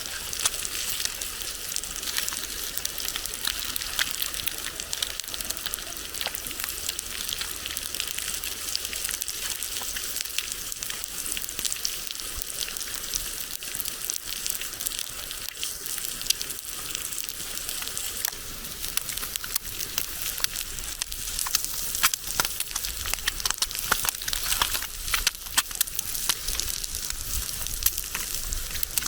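Food frying over a campfire: a steady sizzling hiss with dense fine crackles, and sharper pops in the second half.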